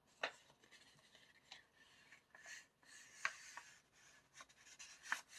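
Faint rustling and sliding of paper and card, with a few light clicks and taps, as a K-pop album's photocards, posters and inserts are pulled out of the album's pocket.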